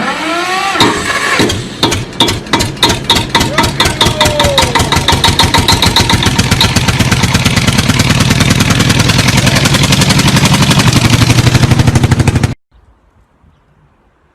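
An engine running loud with a pulsing beat that speeds up steadily, from a few strokes a second to a rapid rattle, then cuts off abruptly about twelve and a half seconds in.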